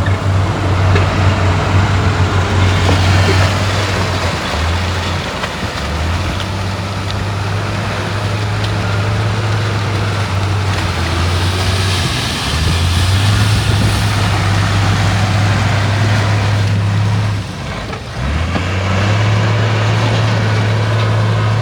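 Heavy diesel earthmoving machinery working: a deep engine drone over a steady mechanical noise, the drone breaking off briefly a few times, with a short drop in loudness near the end.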